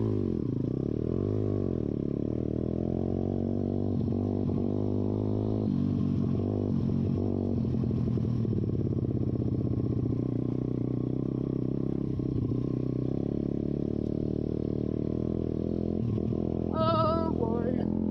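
YCF pit bike's single-cylinder four-stroke engine, spark arrestor removed, running under a rider on a trail. The revs rise and fall a few times in the first couple of seconds, then hold steadier with smaller changes in throttle.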